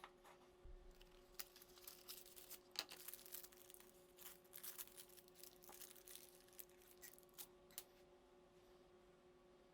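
Faint, scattered clicks and light scraping of small handwork over a steady low hum; the clicks stop about eight seconds in.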